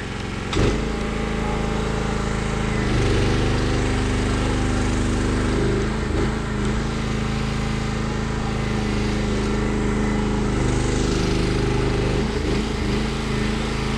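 Aerial lift's engine running steadily while driving the hydraulics to swing the boom at full extension. Its note shifts a few times as the boom moves.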